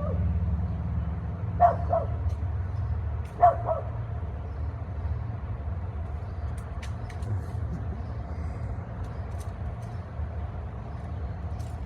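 A dog barks twice, short calls about two seconds apart, over a steady low rumble.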